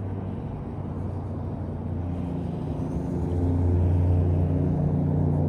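A motor vehicle's engine droning steadily at a low pitch, growing louder about three seconds in.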